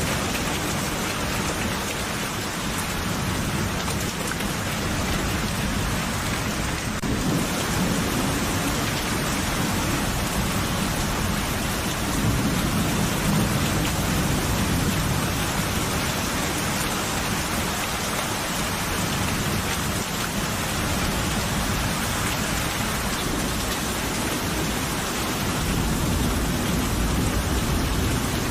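Steady heavy rain falling, with low rolling thunder rumbling under it and swelling a few times.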